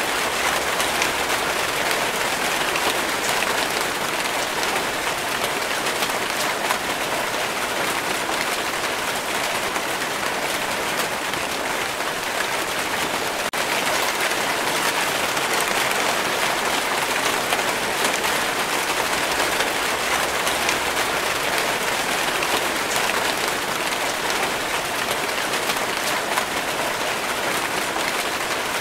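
Steady rainfall: an even hiss of countless raindrops pattering on leaves and surfaces, with one momentary drop in level about halfway through.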